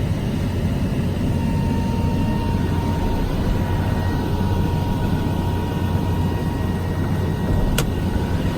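Cummins diesel engine of a Dodge Ram chassis-cab truck idling with a steady low rumble, heard from the cab with the air conditioning running. A single sharp click near the end.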